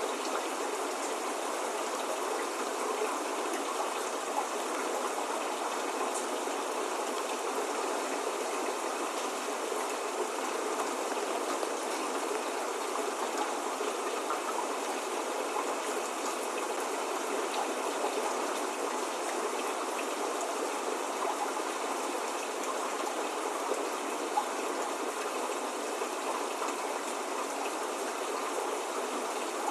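Steady spring rain falling: an even hiss of rain with scattered faint drop ticks, no thunder.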